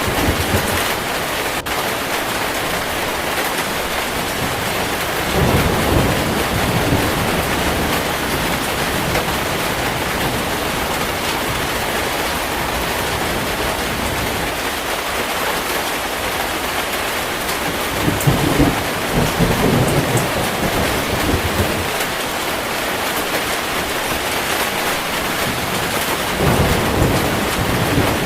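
Heavy rain falling steadily, with low rolls of thunder swelling up three times.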